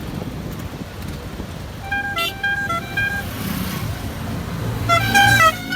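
A musical vehicle horn playing a short run of stepped notes twice, about two seconds in and again near the end, over a steady road and engine rumble.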